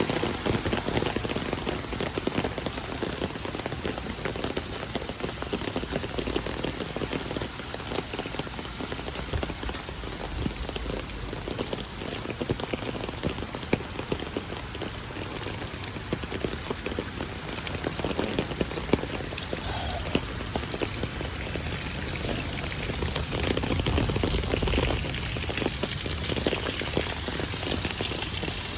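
Heavy rain in a downpour, a steady, dense patter of drops.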